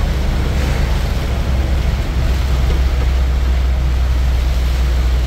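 Moving vehicle on a highway: a steady, loud, low road and engine rumble.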